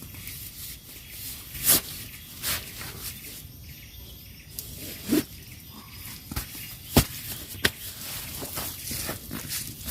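Outdoor nature ambience: a steady hiss with scattered, irregular sharp clicks and taps, the loudest about two seconds in and near seven seconds.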